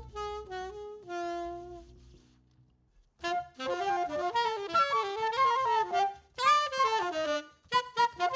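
Jazz saxophone playing: a phrase that ends on a held note, a brief pause about two and a half seconds in, then fast runs of notes.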